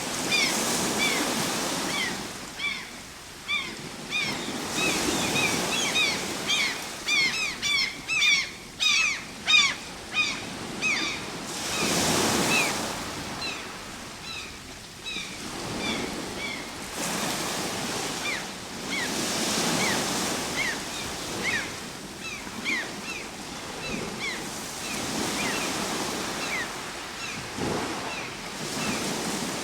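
Ocean waves washing in slow surges, one swell every several seconds. Over them are many short, high bird chirps, thick through the first ten seconds or so and sparser afterwards.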